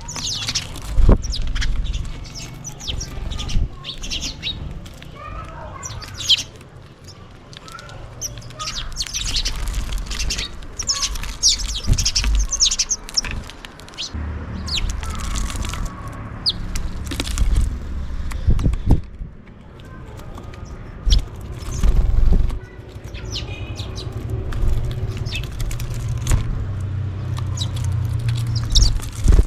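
House sparrows chirping and calling over and over while feeding, with wing flutters, over a low rumble and a few dull thumps.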